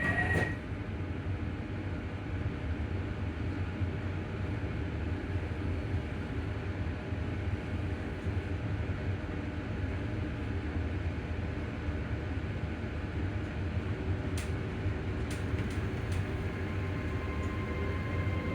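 Inside a ScotRail Class 385 electric multiple unit: a steady low rumble of the running train. A brief high beep sounds at the very start, a faint steady hum tone comes in about three-quarters of the way through, and there are a few light clicks near the end.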